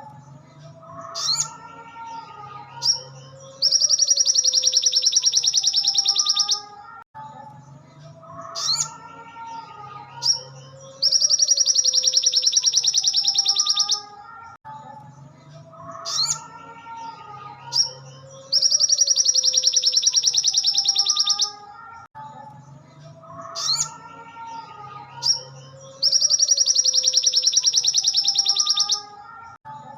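Recorded sogon (ruby-cheeked sunbird) song played on a loop. A loud, rapid, high trill lasting about three seconds comes four times, about every seven and a half seconds, with short sharp chirps between the trills. A quieter layer of lower gliding calls runs underneath.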